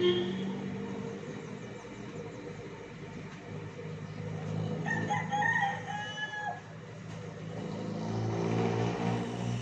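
A rooster crowing once, about five seconds in, over a steady low engine hum.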